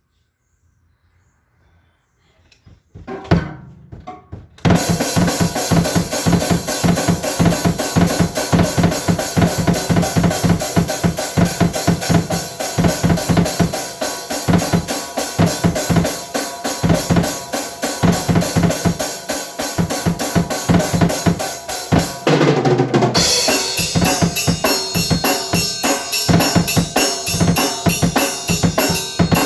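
Drum kit played: after a few seconds of quiet and a few loose hits, a fast steady beat of kick and snare comes in and keeps going. Just after two-thirds of the way through there is a brief held crash, then the beat goes on brighter and busier with more cymbal.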